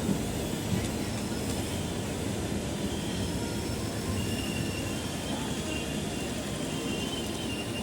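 Passenger train rolling through the station: a steady rumble of wheels on rails, with faint, thin, high-pitched wheel squeals coming and going.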